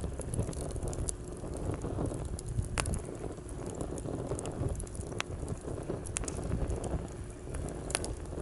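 Wood campfire burning in a fire stand, crackling with a few sharp pops, over a steady low rumble of seaside waves.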